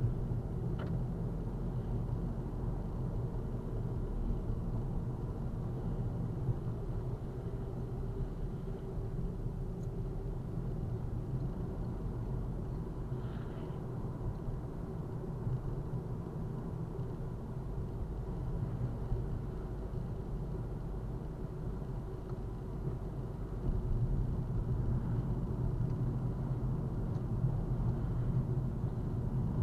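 Steady low rumble of a car driving, heard from inside the cabin, growing a little louder near the end.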